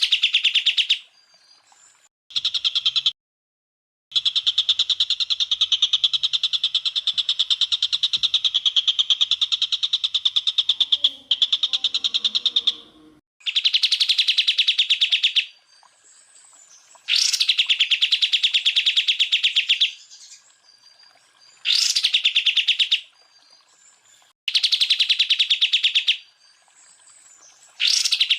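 Green leafbird (cucak ijo) singing rapid trilled bursts of fast repeated high notes, some opened by a sharp upward sweep, in runs of a few seconds broken by short pauses: the fast 'tembakan' phrases of a song-tutor recording.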